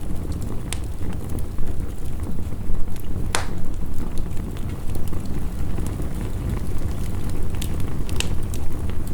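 Wood fire crackling, with a few sharp pops, the loudest about three seconds in, over a steady low rush of heavy rain.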